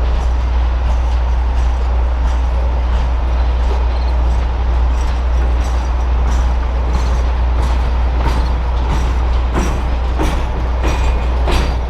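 Norfolk Southern Triple Crown RoadRailer train rolling past: a steady rumble of wheels on rail, with wheel clicks over rail joints coming more often in the last few seconds.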